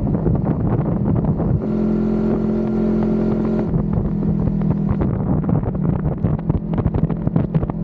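A vehicle engine running at a steady pitch, with a brighter engine note joining for about two seconds near the start.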